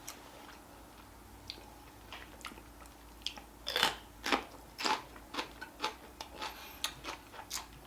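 A person chewing and biting food close to the microphone: irregular short mouth clicks and smacks, louder and more frequent about halfway through.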